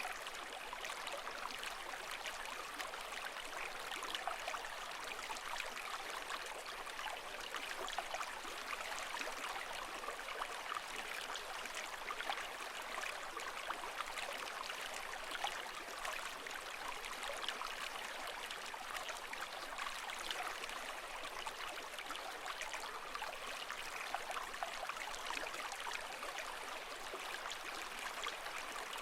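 Running water, steady and even, with many small splashes and no slow surge of waves.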